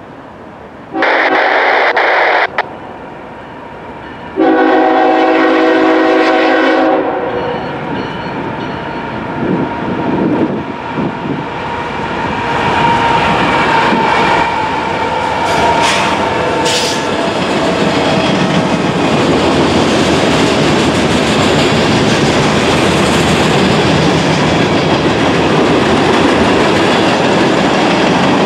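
CSX freight train's locomotive horn blows two blasts, a short one and then a longer chord. Then the diesel locomotives and the loaded freight cars roll past, wheels clattering over the rail joints.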